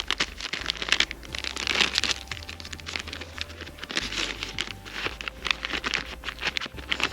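A coffee packet crinkling and tearing as it is handled and opened: a run of quick, irregular crackly rustles.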